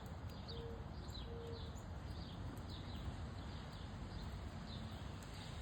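Wind blowing steadily over a crackling wood fire, its pops and snaps scattered through. Faint, short, high chirps repeat about twice a second.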